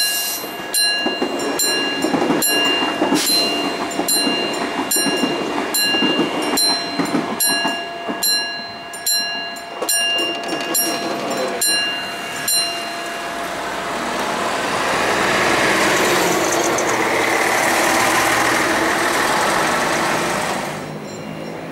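Siemens Desiro class 460 electric multiple unit passing on the track, its wheels clicking steadily over the rail joints under a steady whine. After about thirteen seconds the clicks and whine end and a broad rushing noise swells, then stops suddenly near the end.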